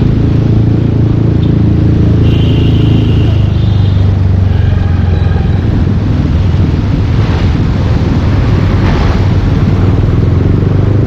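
Yamaha Aerox 155 scooter's single-cylinder engine running through a full Yoshimura aftermarket exhaust while being ridden. The exhaust note is a loud, steady low drone.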